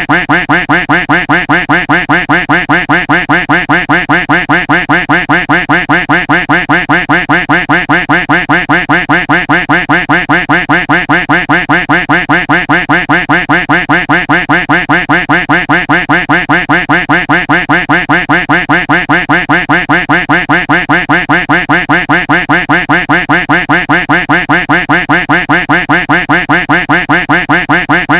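A duck-quack sound effect looped without a break, the same quack repeating evenly several times a second.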